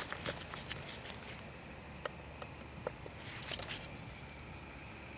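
Light rustling and a few scattered sharp clicks of a screwdriver and hand working small screws out of a string trimmer's housing.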